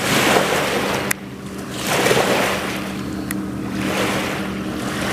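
River water washing against the shore in surges about every two seconds, with a faint steady low hum underneath.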